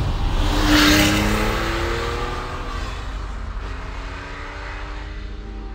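Porsche Carrera 2.7 RS's air-cooled flat-six accelerating out of a bend, rising in pitch over about two seconds, then fading steadily as the car pulls away.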